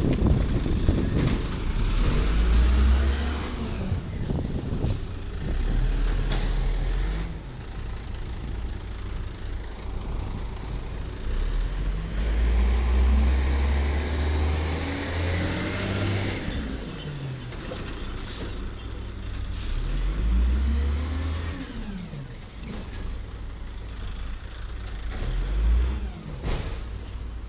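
The diesel engine of a 1995 WhiteGMC Amrep automated side-loader garbage truck (Volvo VED7), revving up and settling back several times, with air-brake hiss.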